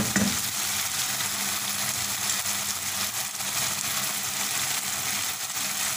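Mutton karahi sizzling steadily in separated oil in a wok on high heat, the water cooked off.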